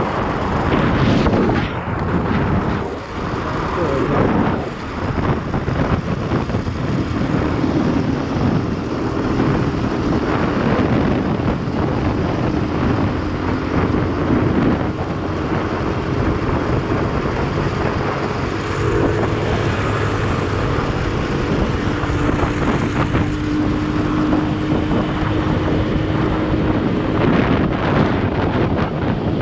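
Wind buffeting the microphone over the steady engine and road noise of a moving motorcycle.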